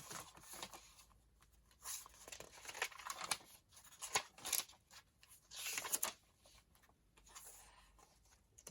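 Sheets of tea-stained paper being handled: short dry rustles and slides in irregular bursts, the strongest a few seconds in and about six seconds in.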